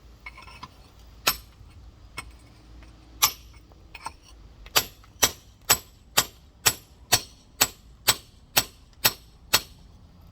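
Rock hammer striking a giant geode: two separate sharp taps, then from about halfway through a steady run of about two blows a second, scoring the stone around its middle so it can be split.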